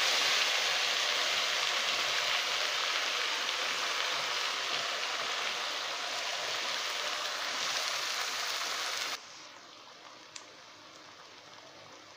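Wet ground masala paste sizzling as it hits hot oil in a kadai. About nine seconds in the sizzle drops suddenly to a much fainter one, with a couple of light clicks.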